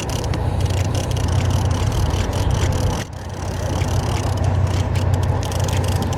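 Wind buffeting the microphone on an open boat: a loud, steady low rumble with faint ticking, dipping briefly about three seconds in.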